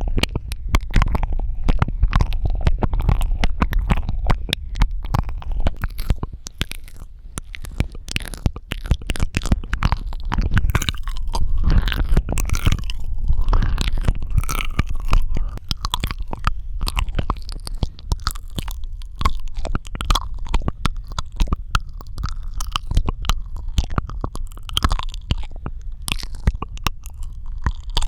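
Close-up ASMR mouth sounds: rapid wet clicks, smacks and tongue pops right at the microphone, with a deep low rumble under them, dense and continuous.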